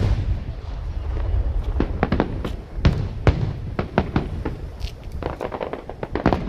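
A fireworks display: aerial shells bursting in a rapid, irregular run of sharp bangs and crackles over a continuous low rumble, with a cluster of bursts a little past the middle.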